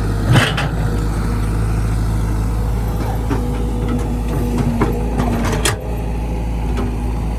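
Heavy diesel engine running steadily, with two sharp metallic clanks, one about half a second in and one near the end, and a faint steady whine for a couple of seconds in the middle.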